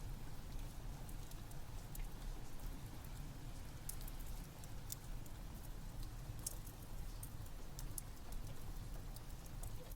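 Wood fire crackling in a fireplace, with scattered sharp pops and ticks over a steady low rumble, blended with rain.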